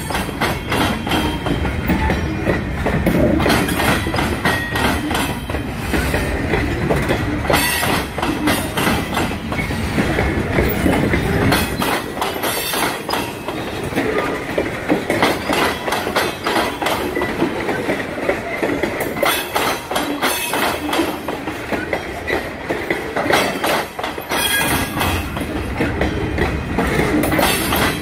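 Loaded freight train of covered hopper cars rolling past close by, the steel wheels clicking steadily over the rail joints and the diamond crossing, with a few louder clanks. The deep rumble under it thins out about halfway through.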